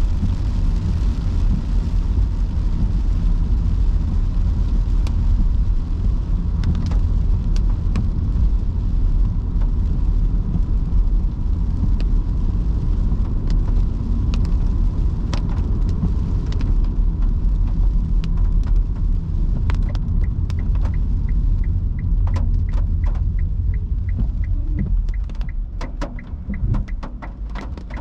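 Inside a Nissan Leaf electric car driving in heavy rain: a steady low road and tyre rumble, with raindrops ticking on the body and glass. Near the end the car slows, the rumble eases, and a regular ticking starts, about twice a second.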